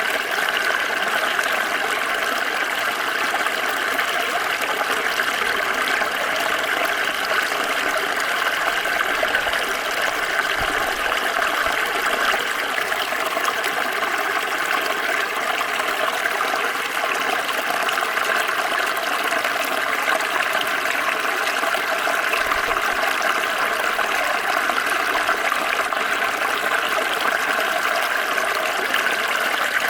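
Water of a small stream flowing and trickling steadily.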